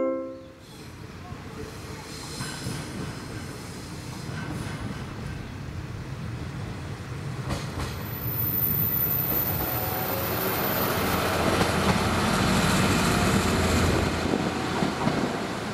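Kyoto Tango Railway diesel railcars passing close by: steady engine and wheel-on-rail rumbling that builds up in the second half, with a thin high-pitched wheel squeal for a few seconds around the middle.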